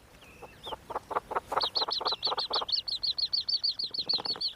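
Yellow-billed hornbill chicks squeaking in the nest: a fast, even run of high chirping squeaks, about nine a second, starting about a second and a half in. Underneath is a series of lower, rapid pulsed notes.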